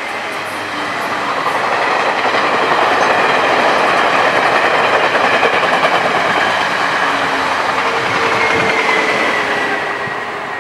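Taiwan Railways E1000-series push-pull express train passing close at speed: a steady rush of wheels on rail that swells over the first few seconds and eases toward the end. A thin, slightly falling whine rises out of it near the end as the rear power car goes by.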